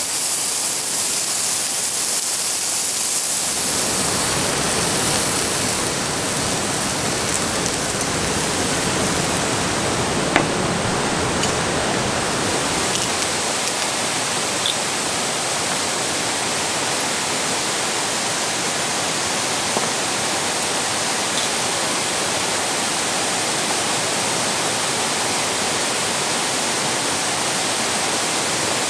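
Meat sizzling in a hot skillet for the first few seconds, then steady rain, with a light click about ten seconds in.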